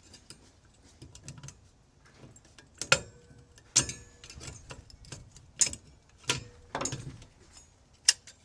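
Small metal parts from a microwave magnetron being handled and knocked together: about six sharp metallic clinks spread out over several seconds, some ringing briefly.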